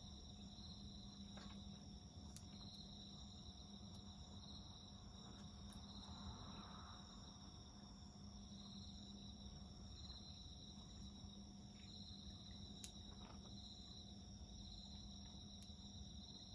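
Faint crickets trilling steadily, one high chorus swelling and fading about once a second over a second steady higher tone, with a few scattered pops from a crackling wood fire.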